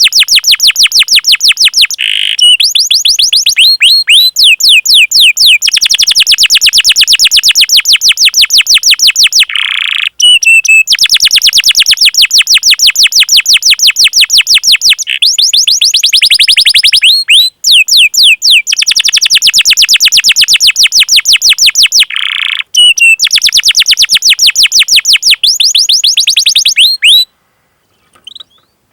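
Domestic canary singing: long rolls of rapid, evenly repeated high notes lasting several seconds each, broken by brief pauses and a few lower swooping notes, stopping shortly before the end.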